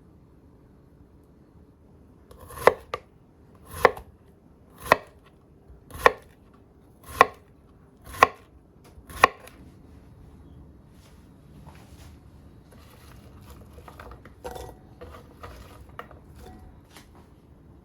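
A kitchen knife chopping down onto a cutting board, seven firm strikes about a second apart, followed by quieter small knocks and handling sounds.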